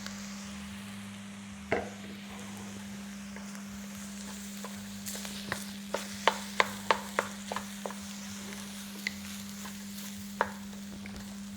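Fried rice and vegetables sizzling in a pan with freshly added chicken stock, cooking down. About halfway through, a quick run of sharp clicks as a utensil stirs and taps against the pan, with single clicks earlier and near the end.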